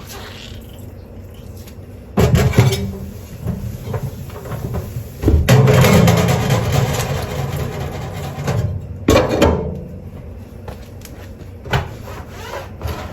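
Dishes being washed by hand at a sink: crockery and utensils knocking and rubbing against each other, with a few seconds of running tap water in the middle.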